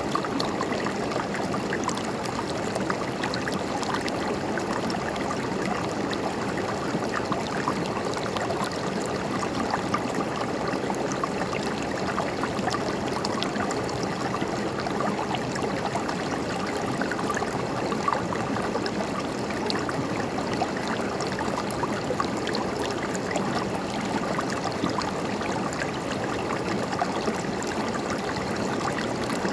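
River water rushing and gurgling over rocks, a steady splashing flow.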